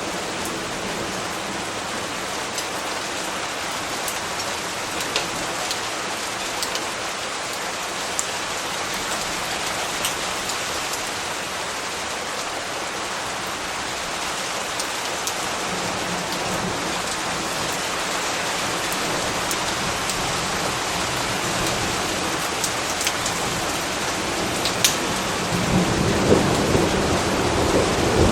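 Steady rain, with scattered sharp drop ticks. A low rumble of thunder swells over the last few seconds.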